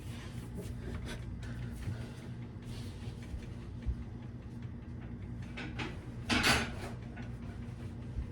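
Light knocks and rustles of a refrigerator shelf being handled and wiped with paper towel, with one louder brief rustle about six seconds in, over a steady low hum.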